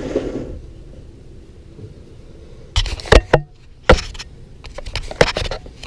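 Sharp metal clinks and clanks of a wrench working at the lower engine drain plug of a Yamaha WR450F: a cluster about three seconds in, one loud clank near four seconds, and a few more near the end.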